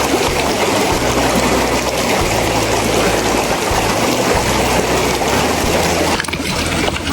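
Mountain river water rushing and babbling over stones close to the microphone, a loud steady hiss that dips briefly about six seconds in.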